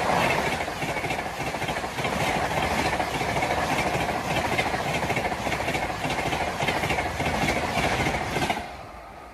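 Bhopal Shatabdi Express passenger train passing close by at speed: a loud rush of wheels on rail with quick clickety-clack over the rail joints, falling away suddenly near the end as the last coach goes by.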